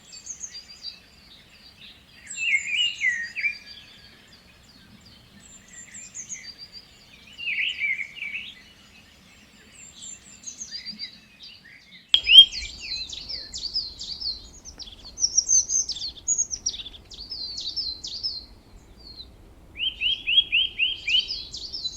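Birds chirping and singing in repeated short calls and trills. About halfway through, the sound changes abruptly to faster, higher chirping over a faint low hum, and near the end there is a quick run of about six notes.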